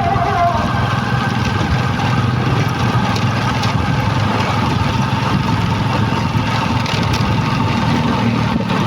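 Heavy truck engine running steadily, a constant low rumble.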